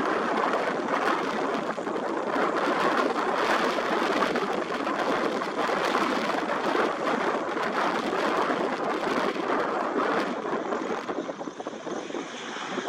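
Airbus H135 helicopter running close by: a loud, steady rush of rotor and turbine noise. Near the end the rush eases and a high turbine whine comes through.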